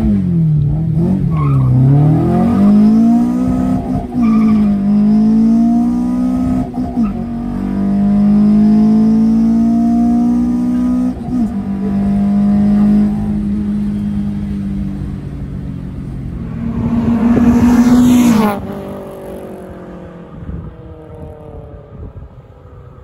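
Honda B20B four-cylinder with individual throttle bodies, pulling hard at high revs as heard from inside the cabin. The revs drop and climb again twice in the first couple of seconds as it is shifted up, then hold high through a long pull. A loud surge comes about three-quarters of the way through, then the throttle is lifted and the engine quietens.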